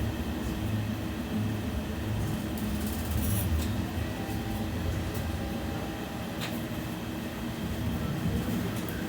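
Interior of a BKM 60102 tram running between stops: a steady low hum of the motors and running gear, with wheel-on-rail noise and a sharp click about six and a half seconds in.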